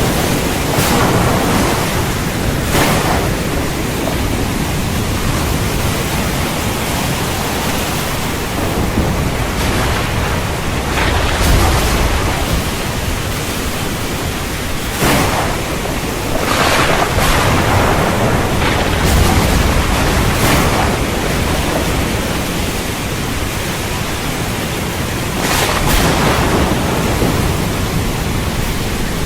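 Heavy rain falls steadily in a constant hiss. Several sudden cracks and low rumbles of thunder break through it.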